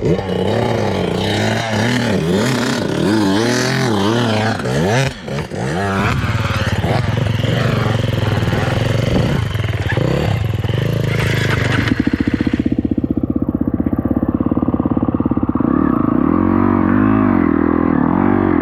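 Dirt bike engine revving up and down repeatedly through the first several seconds, then running more steadily at a low throb; about two-thirds of the way in the sound turns suddenly muffled.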